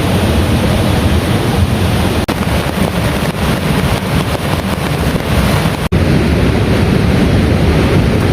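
Heavy rain pouring down, a dense steady hiss of rainfall with wind rumble on the microphone. The sound cuts out for an instant twice, about two and six seconds in.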